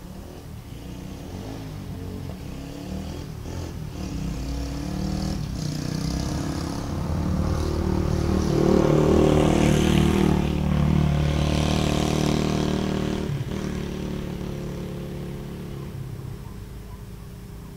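Dirt bike engine running, growing steadily louder to a peak about halfway through and then fading away again.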